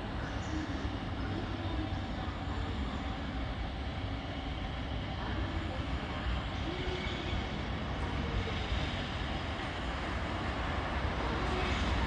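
Steady low rumble of an approaching freight train, growing a little louder near the end.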